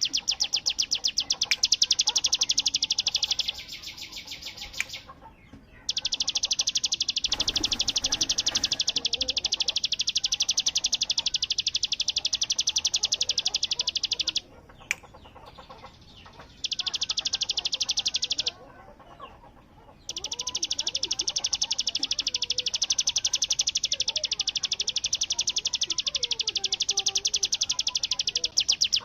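Ciblek gunung (a prinia) singing its 'bren' song: long, very fast machine-gun-like rattles of high notes, broken by a few short pauses. Fainter, lower chirping runs underneath.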